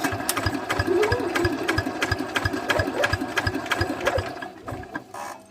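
Single-cylinder R180 diesel engine of a walk-behind tractor spun over with the hand crank, turning with an even clatter of about five strokes a second but not firing. It slows and dies away near the end. The engine turns freely because it has almost no compression.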